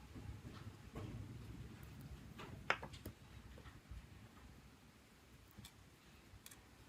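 A few small clicks and taps from handling phone parts and tools, with one sharper click about two and a half seconds in.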